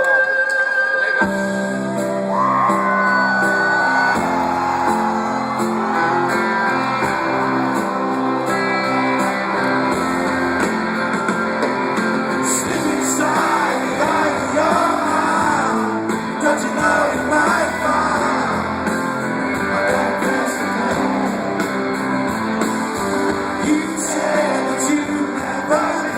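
Live rock band with guitars playing a song in a large hall, starting about a second in after a held tone, with voices singing and shouting along.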